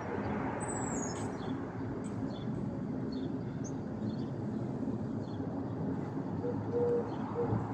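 Steady outdoor engine rumble, as from distant traffic and aircraft, with small birds chirping throughout. A dove coos a few times near the end.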